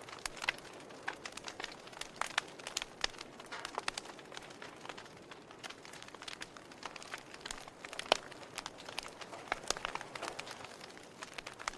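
Wood fire burning in a fireplace, crackling with irregular snaps and pops over a low hiss, one sharper pop about eight seconds in.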